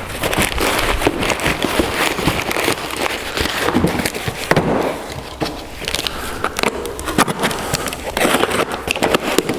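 Packaging of a new electric motor being handled and unwrapped, a dense, irregular crackling and rustling with many sharp clicks.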